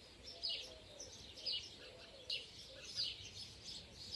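Birdsong: a bird repeating a short high chirp that falls in pitch, about twice a second, faint over a quiet outdoor background.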